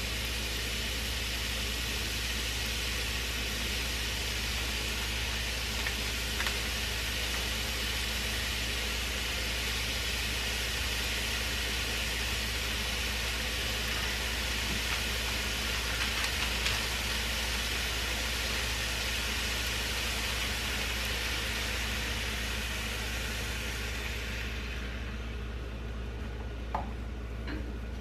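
Chicken and vegetables sizzling in a skillet: a steady frying hiss over a constant low hum. The hiss falls away about 25 seconds in, and a few light knocks follow near the end.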